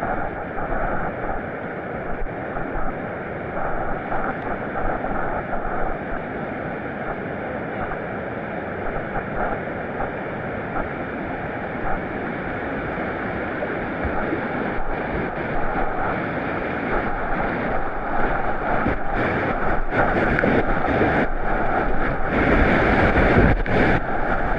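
Whitewater of a class III river rapid rushing steadily, growing louder over the last several seconds with many short sharp hits of splash and wind on the microphone.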